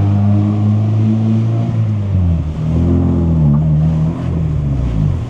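2001 Honda Prelude's H22 four-cylinder engine pulling the car on its first drive after a rebuild. Its pitch rises a little over two seconds in and falls back near the end.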